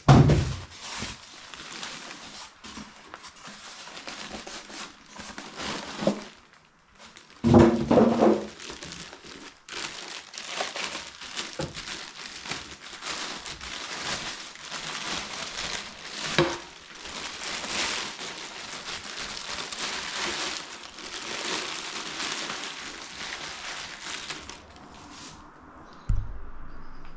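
Packing material crinkling and rustling as a boxed electric melting furnace is unpacked, with a few dull knocks from handling the box and its contents.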